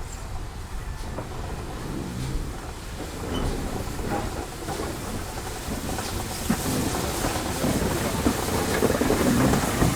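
GWR steam tank locomotive approaching with a train: a rumbling, crackling noise that grows steadily louder.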